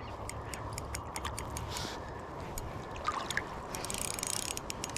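Steady rush of flowing river water, with light, irregular clicks from a fishing reel as a hooked fish is played on light line.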